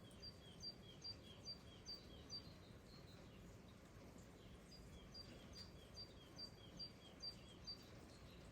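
A small songbird singing two phrases of repeated two-note calls, each a higher note followed by a lower one, about two notes a second, with a pause of a few seconds between phrases. Beneath it is a faint, steady hiss of light rain.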